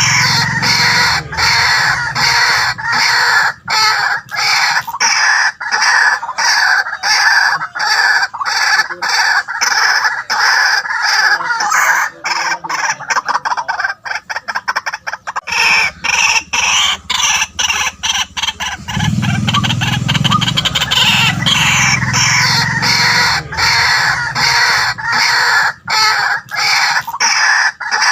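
White-breasted waterhen calling: a continuous run of rapidly repeated notes with no break. A low hum sits underneath near the start and again about two-thirds of the way through.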